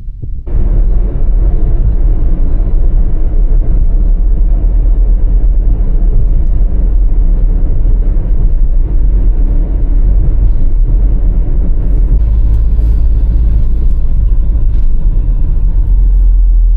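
Vehicle on the road: a loud, steady low rumble of engine and road noise that starts suddenly about half a second in.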